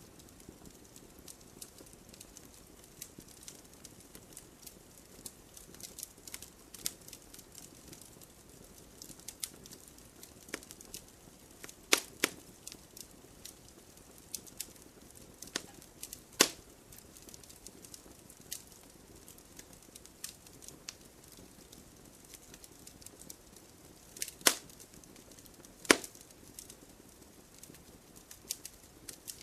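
Wood fire crackling: irregular small snaps over a soft hiss, with a few sharp loud pops.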